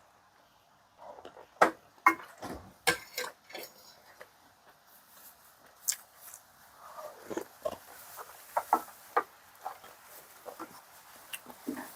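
Close-miked eating sounds: irregular clicks, smacks and slurps, with a cluster of sharp clicks about two seconds in and another about eight seconds in.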